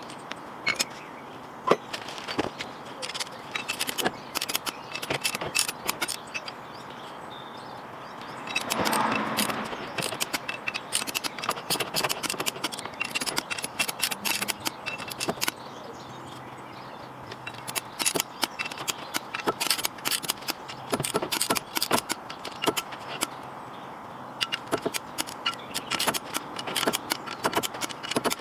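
Irregular light metallic clicks and clinks of hand tools and metal parts being handled, with a denser scraping rustle about nine seconds in.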